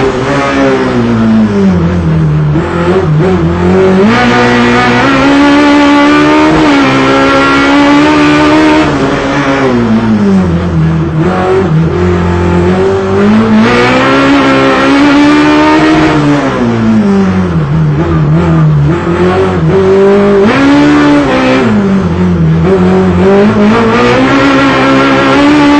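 Race car engine heard from inside the cockpit, revving up hard and dropping back over and over as it is driven through the course.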